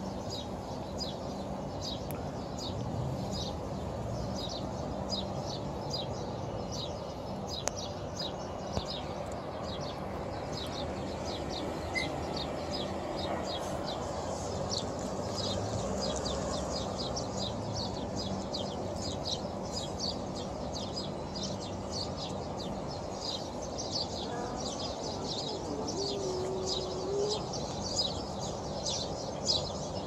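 Small birds chirping continuously in quick repeated notes, several a second, over a steady background hiss and hum.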